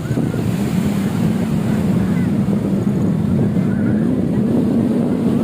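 Wind buffeting the microphone in a steady low rumble over the wash of sea surf on a beach.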